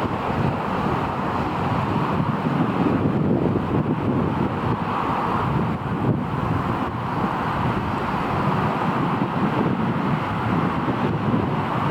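Steady rushing noise of airport ambience: wind on the microphone over distant aircraft engine noise, swelling and easing slowly.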